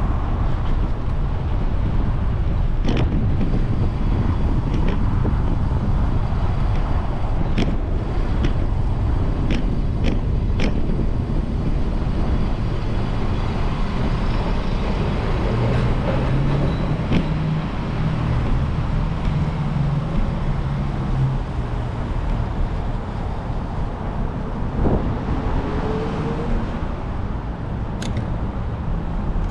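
Steady rush of road and traffic noise heard from a moving bicycle, with a motor vehicle's engine droning past about halfway through. Scattered sharp clicks and knocks.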